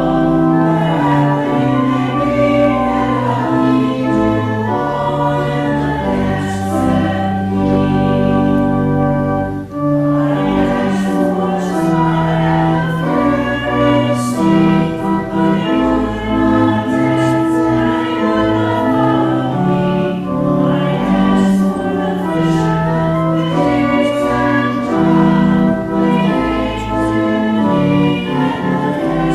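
Congregation singing a hymn to organ accompaniment, in sustained notes with a short break between lines about ten seconds in.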